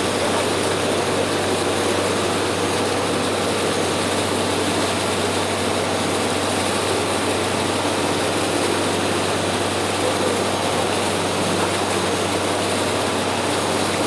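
Sightseeing boat's engine running steadily, a constant drone heard from on board.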